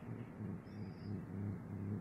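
Cat growling low, in repeated rumbling swells.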